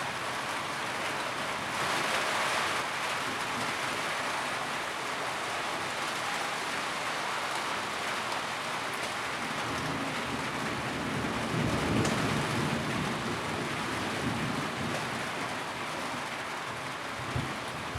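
Steady rain falling on a tin roof, with a heavier spell about two seconds in. A low rumble swells and fades around twelve seconds in.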